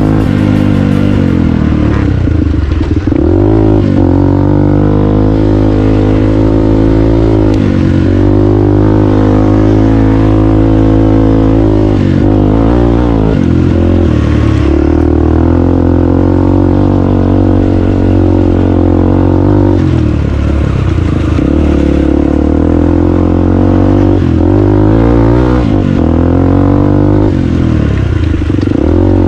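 Dirt bike engine running hard, close up, its revs dropping and climbing again every few seconds with throttle and gear changes.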